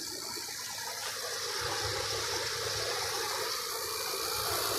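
2003 General Electric 8000 BTU window air conditioner running: a steady rush of air from the fan, with a thin high steady tone, over an extremely quiet compressor. It runs smoothly, with no rattles or knocks.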